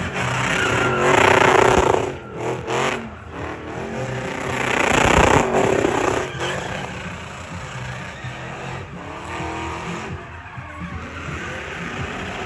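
Car engines running and passing, loudest in two swells: about a second in and again around five seconds in.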